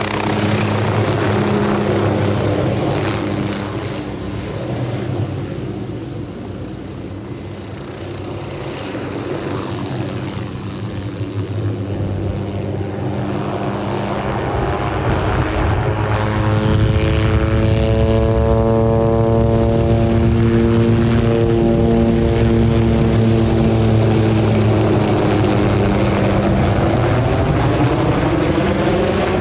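MD500 helicopter's rotor and Allison 250 turboshaft running, with a steady low rotor beat throughout. It fades a little in the first third, then grows louder from about halfway and stays loud, with a wavering, sweeping tone over the top.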